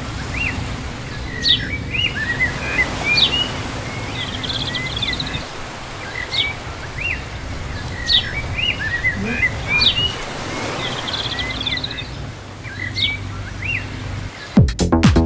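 Birds chirping and calling in repeated short chirps and quick trills, over a steady low background rumble. Music starts suddenly near the end.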